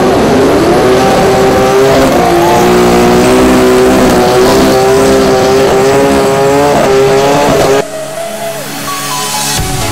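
Drag-racing car engine running hard at high revs, its pitch wavering up and down. It cuts off abruptly about eight seconds in, leaving quieter electronic music.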